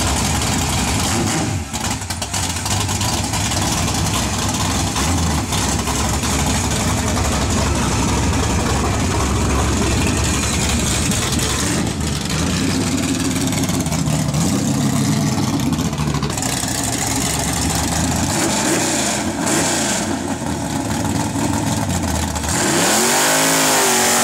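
Car engine revving hard, its pitch rising and falling several times over a steady loud rushing noise.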